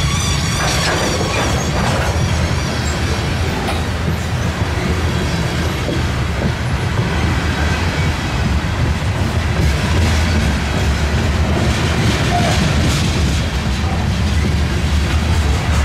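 Freight train passing: rail cars rolling with a constant low rumble and clicking over the rail joints, with faint wavering wheel squeal at the start.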